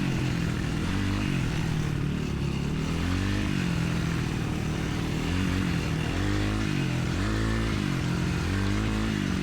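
Dirt bike engine running while being ridden, its revs rising and falling again and again, over a steady rushing noise.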